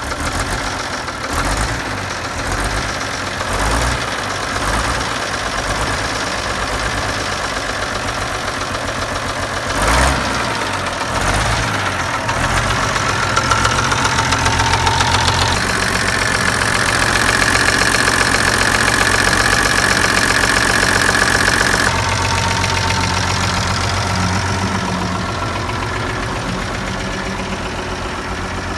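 Six-cylinder engine of a Nuffield 10/60 tractor running. About halfway through the revs rise and hold with a whine, then drop back later on. There is a single knock about ten seconds in.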